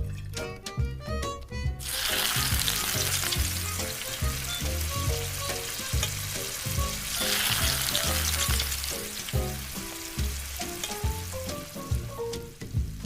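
Miniature chicken legs frying in hot oil in a tiny pan: a steady sizzle that starts about two seconds in and dies away near the end, over background music with a steady beat.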